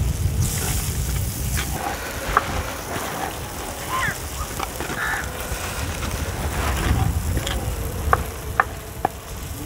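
Chopped tomatoes and spice masala frying in oil in a clay pot, stirred with a wooden spoon: a steady sizzle with scattered knocks and scrapes of the spoon against the pot, over a low wind rumble on the microphone.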